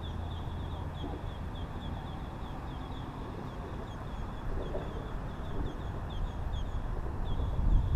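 A bird giving a long run of short, high chirps, about four a second, over a steady low rumble. A dull thump comes near the end.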